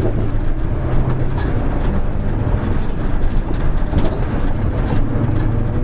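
Diesel engine of a Hino KL-HR1JNEE city bus running steadily under way, heard from inside the cabin as a low drone, with light rattling clicks scattered through it.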